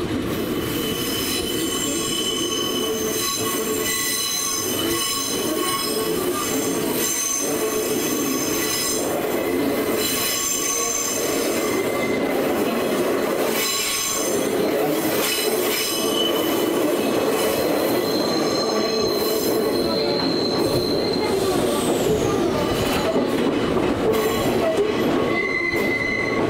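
Nankai electric train running on the rails, a steady low rumble with high-pitched wheel squeal over it, growing slightly louder toward the end.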